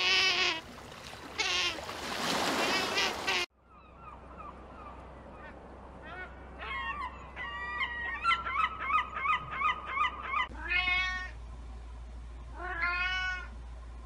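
Sea otter giving high, squealing calls. After a cut, a flock of gulls calls in quick overlapping cries, and then a domestic cat meows twice.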